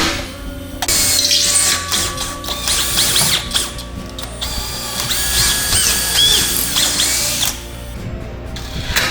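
A power tool running in spells, with a steady low hum and high squealing tones, over background music; it drops away near the end.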